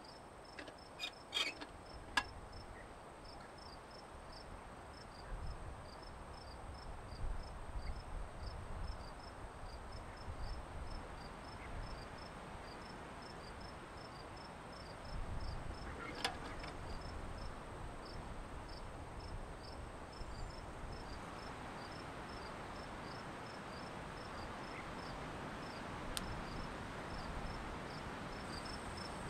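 Cricket chirping in a steady, even rhythm of short high-pitched chirps, with a few sharp clicks near the start and one about halfway through.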